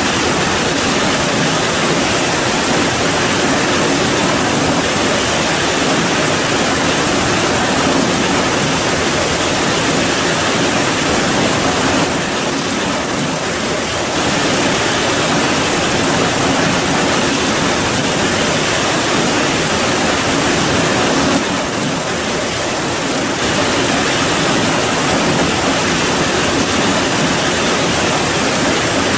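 Steady rain, a dense even hiss that dips slightly in level twice for about two seconds.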